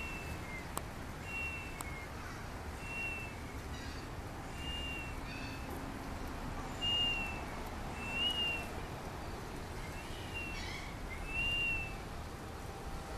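A bird's short, high whistled call, each note falling slightly and sometimes followed by a lower one, repeated about eight times at an even pace of roughly one every second and a half.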